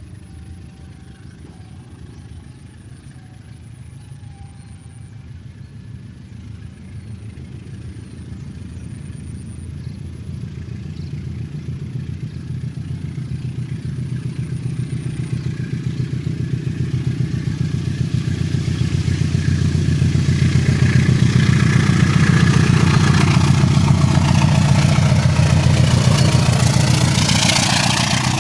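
A diesel locomotive approaching: its engine's low steady drone grows louder throughout. The noise of wheels on rails joins in over the last several seconds.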